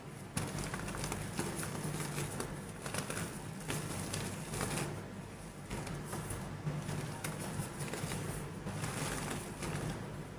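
Soft, crumbly yellow and white chalk being crushed and crumbled: a dense, irregular run of small dry crackles and crumbling taps, over a steady low hum.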